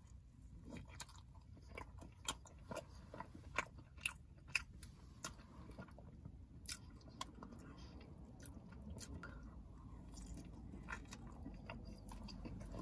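A person biting into and chewing a soft glazed donut, close to the microphone: a run of small wet mouth clicks and smacks, irregular and quiet, over a faint low hum.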